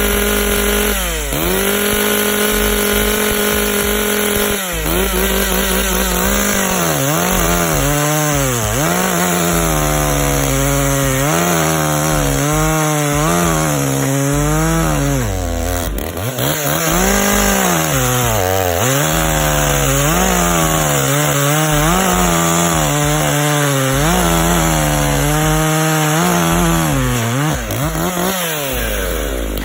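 Dolmar PS5000 two-stroke chainsaw cutting wood at full throttle. The engine note holds steady at first. From about five seconds in it sags and recovers again and again as the chain bites into the wood, and it drops away near the end.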